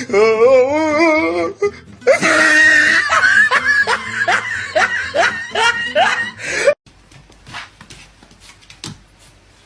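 Loud human laughter over music, a run of rising "ha" sounds about twice a second, cutting off suddenly near seven seconds in; faint taps follow.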